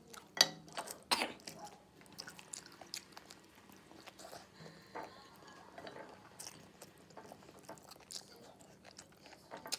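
A person chewing a mouthful of pig-ear bopis eaten by hand, with wet mouth sounds and smacking. There are two sharper, louder clicks about half a second and a second in, then soft scattered mouth clicks.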